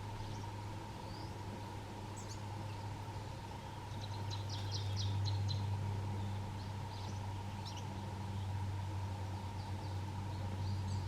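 Wild Atlantic canaries giving short high chirps and calls, with a quick rattling trill about four seconds in, over a steady low hum.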